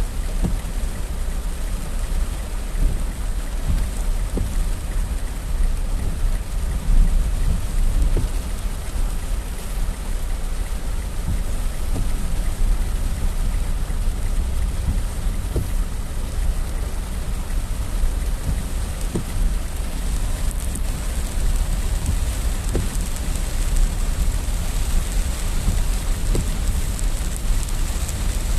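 Heavy rain pouring steadily, a constant hiss with individual drops ticking close by over a low rumble.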